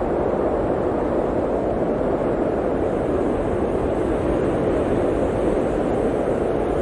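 Blizzard wind blowing steadily, a dense, even rushing noise with a low rumble underneath and no distinct gusts.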